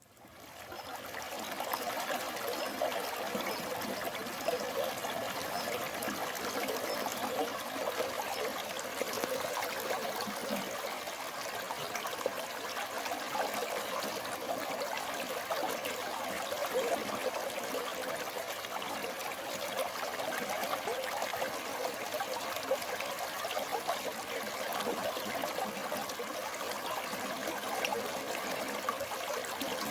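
Water flowing steadily in a forest stream, fading in over the first second.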